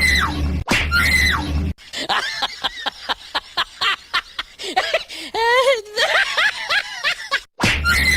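Comedy sound effects. A short pitched clip with a heavy bass plays at the start and again near the end. Between them a high-pitched voice giggles and chatters in quick syllables, with one longer wavering note midway.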